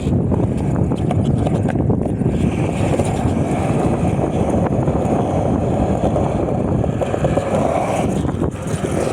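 Skateboard wheels rolling on concrete in a steady rumble, with a few light knocks from the board.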